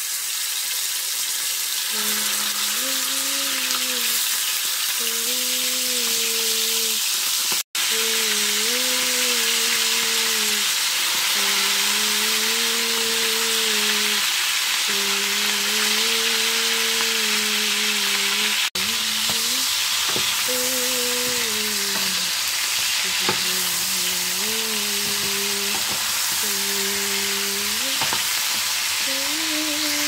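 Marinated chicken pieces sizzling and frying in hot oil in a pan, stirred with a wooden spoon. Over the steady sizzle a voice hums a slow tune in short phrases. The sound drops out briefly twice.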